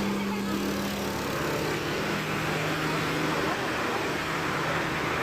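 An engine running steadily, with a low hum that drops slightly in pitch about a second in, over general street noise.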